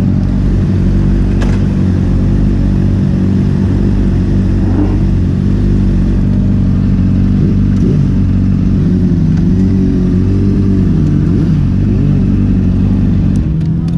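Sport-bike engine running at a steady pitch. From about eight to twelve seconds in, a second engine note rises and falls over it.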